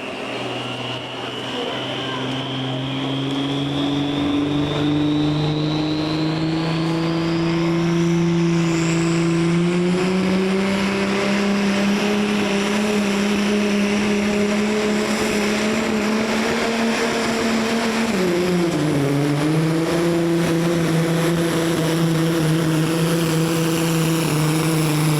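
Pulling vehicle's engine at full throttle dragging a weight sled down the track. Its pitch climbs slowly over the first ten seconds with a high whine rising alongside, dips briefly about eighteen seconds in, then holds steady.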